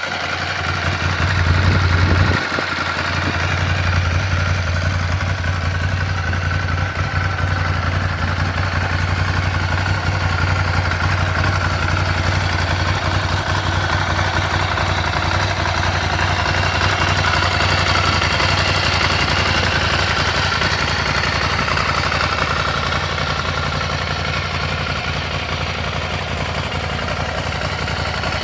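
Ducati Scrambler's air-cooled L-twin engine idling steadily. It swells louder briefly about two seconds in, then settles back to an even idle.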